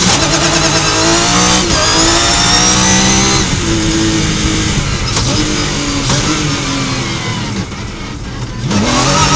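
Rally car engine, heard from inside the cockpit, at full throttle and rising in pitch, with two quick gear changes in the first few seconds. Near the end it lifts off and goes quieter for about a second while slowing for a tight turn, then picks up again.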